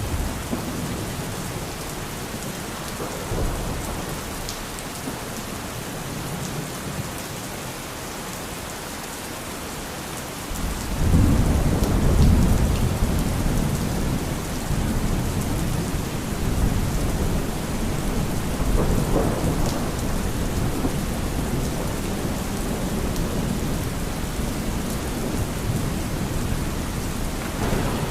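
Thunderstorm: steady heavy rain hissing throughout, with a low rumble of thunder that swells up suddenly about ten seconds in and keeps rolling to the end.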